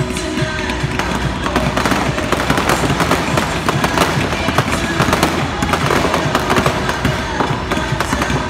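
Fireworks exploding in a dense run of rapid crackles and pops throughout, with music playing underneath.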